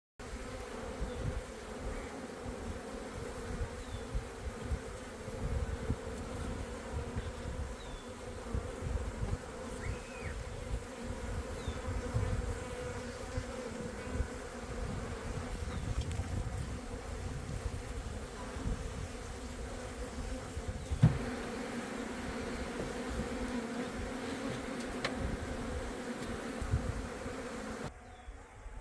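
Many honeybees buzzing at an opened hive: a dense, steady hum from a crowded, healthy colony that came through the winter. A single sharp knock about two-thirds of the way through.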